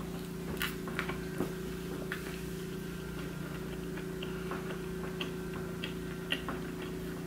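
Soft, irregular wet clicks of someone chewing a mouthful of waffle with strawberries and whipped cream, lips closed, over a steady low hum.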